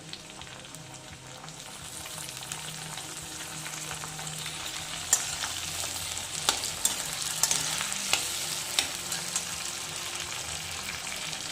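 Onion and tomatoes frying in oil and ghee in a kadai while being stirred, a steady sizzle that grows a little louder over the first couple of seconds. Scattered sharp taps, about one a second, come through the sizzle in the second half.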